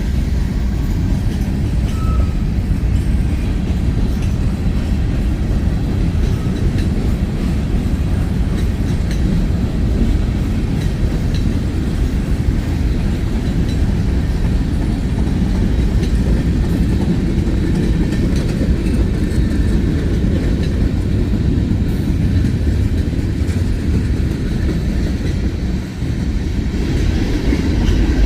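Freight train rolling past: a steady, heavy rumble of freight car wheels on the rails.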